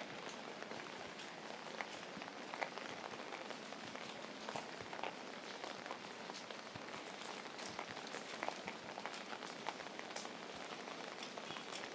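Steady rain falling, with scattered louder drops ticking on nearby surfaces.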